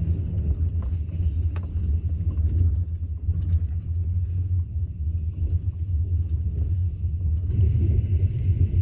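Steady low rumble with a few faint ticks, growing louder and fuller about seven and a half seconds in.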